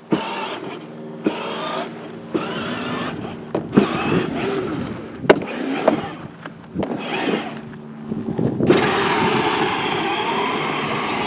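Battery-powered ride-on toy car's small electric motor running with a steady whir, broken by scattered knocks and bumps. Near the end a louder, even rushing noise takes over.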